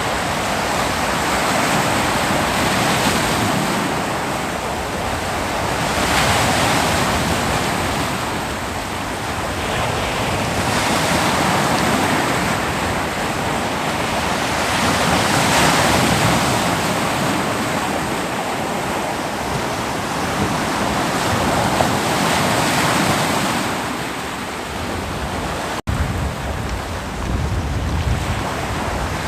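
Ocean waves breaking and washing up a beach, rising and falling in swells every few seconds, with some wind on the microphone. A brief gap about 26 seconds in cuts the sound for an instant.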